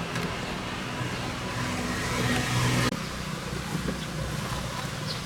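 A machine running steadily with a low hum and a loud hiss; the hiss cuts off suddenly about three seconds in, leaving the hum.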